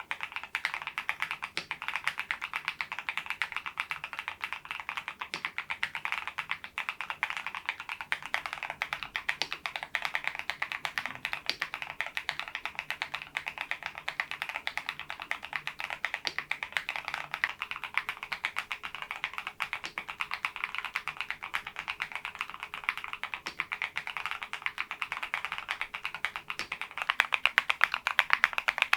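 Fast, continuous typing on a HALO65 V2 mechanical keyboard fitted with thick PBT cherry-profile keycaps: a dense stream of key clacks that gets louder near the end.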